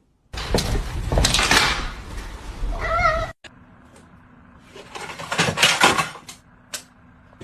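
A cat meows once, a short wavering call near the three-second mark, over loud rustling noise. The sound cuts off suddenly, and scattered rustles and clicks follow.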